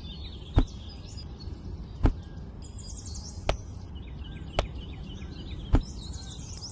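Sharp single knocks, about one every second and a half, over a steady background hiss, with faint bird chirping between them.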